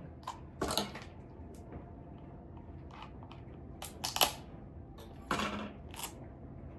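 Plastic wrapper on a small package being handled and opened: a few short crinkles and rustles, the sharpest about four seconds in.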